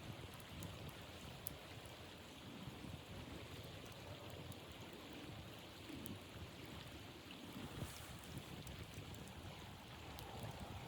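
Wind blowing steadily, with uneven low rumbles on the microphone and a few faint ticks.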